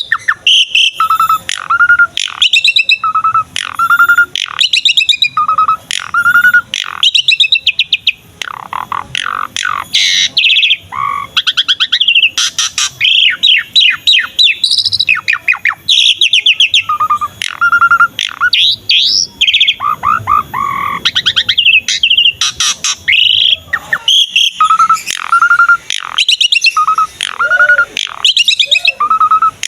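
Asian pied starling (jalak suren) singing persistently in a dense, varied song. A short whistled note, repeated about once a second, runs through it, broken by quick runs of chattering, sweeping notes.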